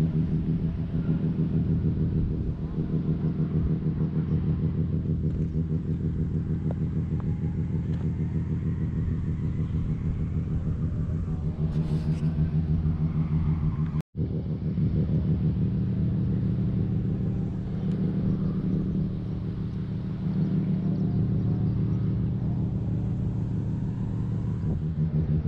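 Nissan Skyline R34 25GT Turbo's RB25DET turbocharged 2.5-litre straight-six idling steadily. The sound cuts out for an instant about halfway through.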